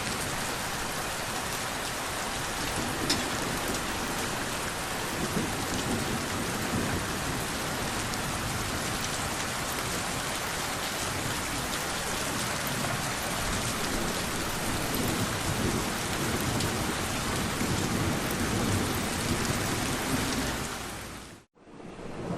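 Steady rain falling, with low rumbles of thunder underneath. The sound cuts out abruptly about a second before the end and comes back quieter.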